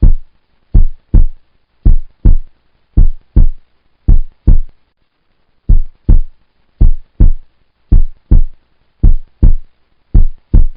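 Heartbeat sound effect: deep, short double thumps (lub-dub), about one pair a second, with silence between the pairs.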